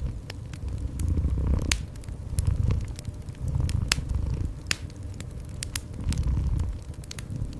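A cat purring close up, its low rumble swelling and fading about every two seconds with each breath. Over it a wood fire crackles, with sharp pops scattered through.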